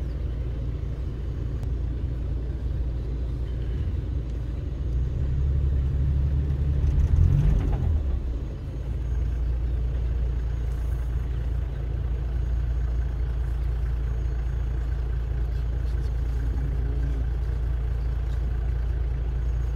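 A vehicle engine running at idle, a steady low rumble, swelling louder for a few seconds in the middle before settling back.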